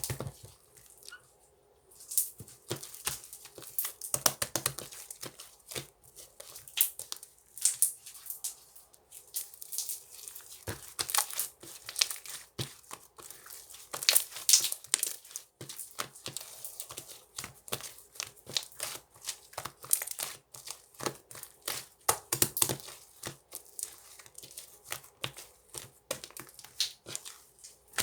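Sherbet-textured slime being squeezed and worked by hand, giving dense, irregular crackling and popping.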